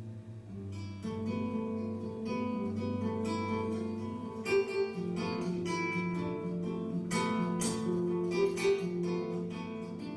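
Background music on acoustic guitar: a steady run of plucked notes over sustained low bass notes.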